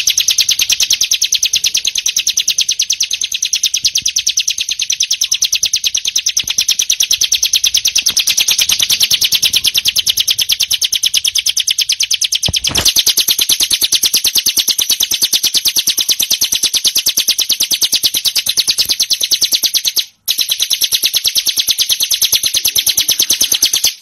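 Bar-winged prinia (ciblek) singing its ngebren song: a long, unbroken, very fast high-pitched rattling trill. It breaks off briefly about twenty seconds in.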